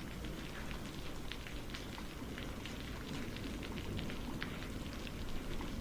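Steady rain falling, with many scattered drops ticking on a surface over a low, even rumble.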